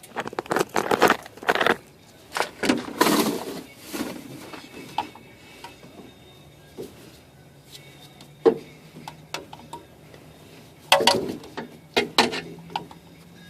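Clattering knocks and scrapes of hand tools at work under a car during an oil change: a busy run of sharp knocks in the first few seconds, a few single knocks, then another burst near the end, over a faint steady hum.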